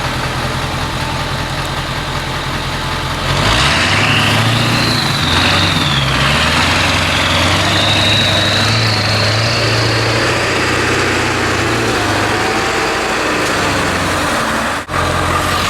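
7.3 L Powerstroke turbo-diesel V8 in a 1976 Ford F600 idling, then pulling harder under load about three and a half seconds in as the truck drives off. A high turbo whistle rises and falls twice over the engine note.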